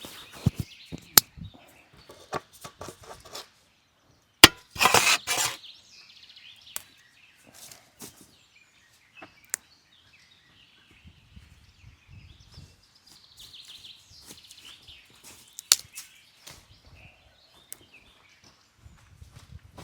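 Scattered sharp snaps and clicks of dry wood being handled and broken, with a loud snap and a second of rustling about four and a half seconds in. Birds chirp faintly in the background.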